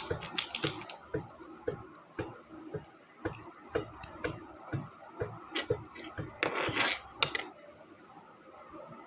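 Small hard model-kit parts clicking and knocking as pieces are handled and fitted together, a few light taps a second. There is a short scrape about six and a half seconds in, then it goes quieter.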